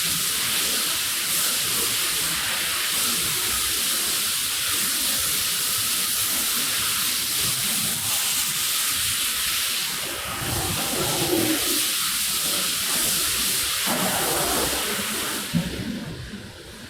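Steady hiss of a high-pressure water spray rinsing a rug. It cuts off with a click about fifteen and a half seconds in.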